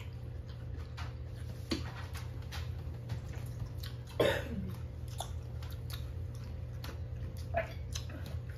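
People biting and chewing crunchy pickles: a run of faint scattered crunches and clicks, with one short falling vocal groan about four seconds in at the sourness. A low steady hum runs underneath.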